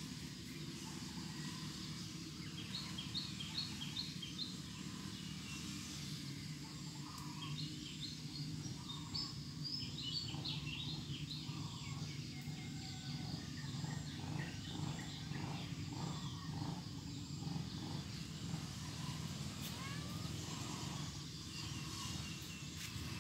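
Small birds chirping in a few quick runs of short, high notes over a steady low outdoor background noise.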